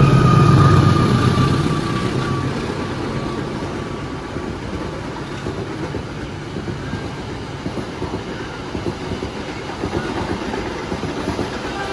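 Passenger train passing at speed. The locomotive's engine is loudest in the first second or two, then the coaches roll past with a steady rumble and clickety-clack of wheels over the rail joints.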